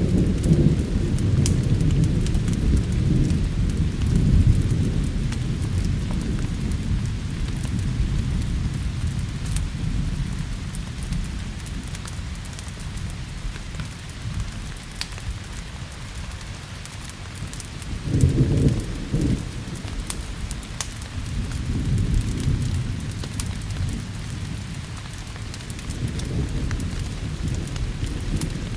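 Steady rain with rolling thunder: a long low rumble over the first several seconds, a sharper burst of thunder about eighteen seconds in, and another rumble soon after. Scattered small crackles are heard through the rain.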